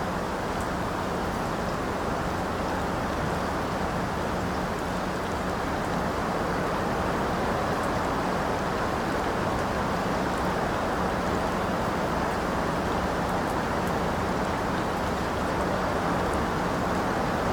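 Steady rain falling, an even, dull hiss with little treble and a few faint drop ticks.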